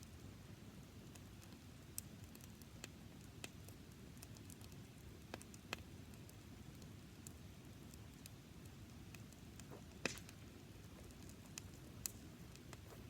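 Small campfire of dry grass crackling faintly: scattered sharp pops over a low steady background, the loudest pop about ten seconds in.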